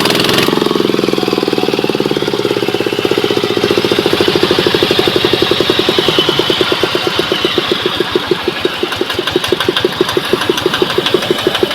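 Kubota ET110 single-cylinder diesel engine running, then slowing from higher revs to a slow idle about halfway through, where its firing beats stand out separately at about ten a second.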